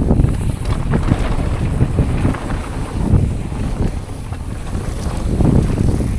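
Wind buffeting the microphone of a camera on a mountain bike at riding speed, with a steady low rumble and frequent knocks from the bike running over rough dirt trail.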